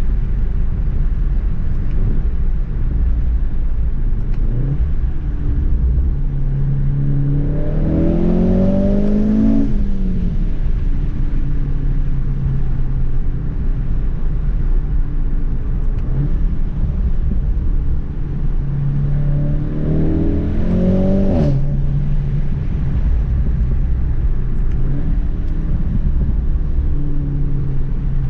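Volkswagen Golf 7 R's turbocharged 2.0-litre four-cylinder engine, fitted with an Akrapovic exhaust, pulling hard twice, about a third of the way in and again about three quarters in. Each time the engine note rises with the revs, then drops suddenly at the upshift. Between the pulls it settles back to a steady cruising drone over road rumble.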